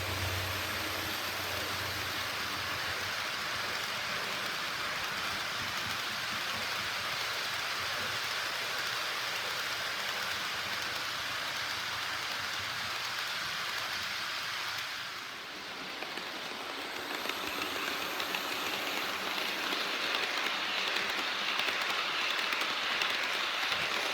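HO-scale model freight train, twin EF64-1000 electric locomotives hauling tank cars, running on the track with a steady rolling rattle of wheels over rail joints. The sound dips briefly about two-thirds of the way through, then grows louder again as the train comes closer.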